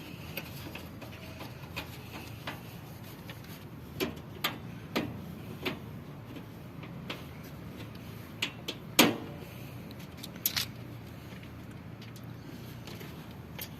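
Scattered clicks and knocks of hand work on washing machine parts over a steady low hum, the loudest knock about nine seconds in.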